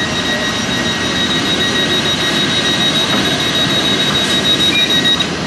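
Train standing at a platform and running: a steady rumble with a steady high-pitched tone over it that stops shortly before the end.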